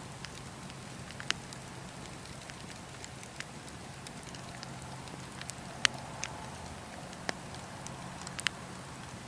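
Wood fire burning with a steady low rush and scattered sharp crackles and pops, the loudest pop about six seconds in.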